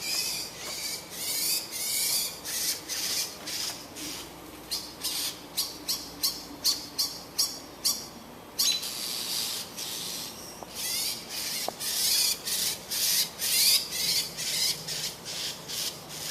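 A bird screaming over and over in harsh, rasping calls, in quick runs of short calls with a brief pause about halfway through. These are agitated screams of the kind the observer links to a nest being disturbed, and he wonders whether a cat is nearby.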